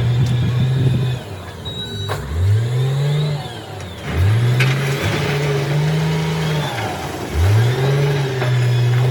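Heavy equipment engine running and revving up three times, about two, four and seven seconds in. Each time the pitch rises quickly and then holds steady at a high run.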